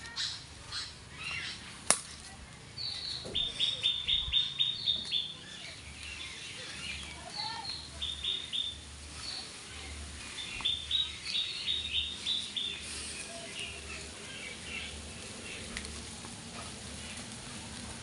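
Small birds chirping in three quick runs of rapidly repeated high notes, with scattered single chirps between them. A single sharp click sounds about two seconds in.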